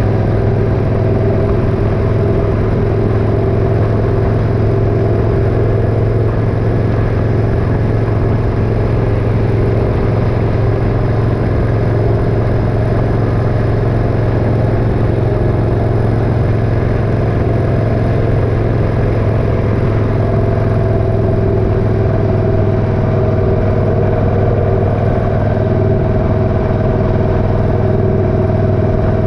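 Motorcycle engine running steadily, a constant low drone that holds one pitch with no revving or gear changes.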